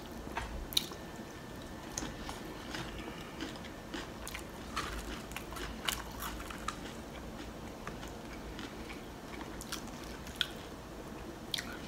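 A person eating loaded nachos close to the microphone: quiet chewing broken by short, sharp crunches of tortilla chips every second or two.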